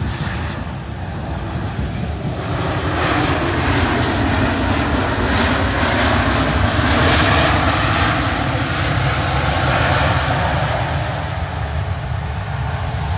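Jet airliner engines running, their noise swelling about two and a half seconds in and staying loud, with a steady low rumble underneath.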